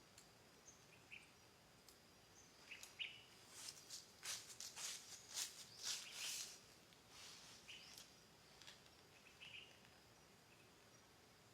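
Faint jungle birds chirping, with a louder run of quick, sharp calls in the middle, over a faint steady high insect-like tone.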